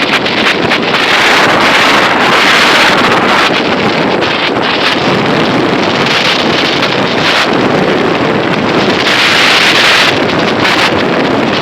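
Loud rushing noise that swells and eases every second or two.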